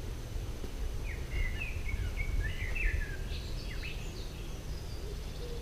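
A songbird singing a short phrase of quick, chirping notes from about a second in until about four seconds in, over a steady low rumble.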